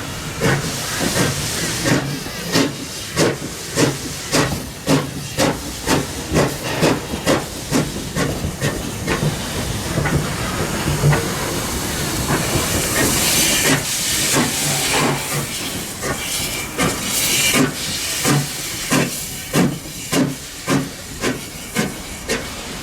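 QR C17-class steam locomotive C17 974 working a train, its exhaust beating about twice a second with steam hissing. The beats blur into a louder hiss for a few seconds in the middle, then resume.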